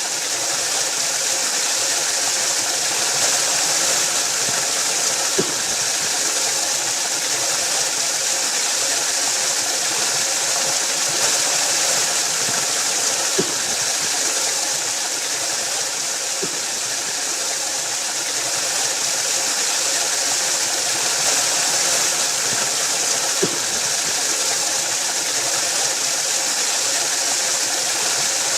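Waterfall: water rushing and splashing in a steady, hissing roar, with a few faint clicks of droplets now and then.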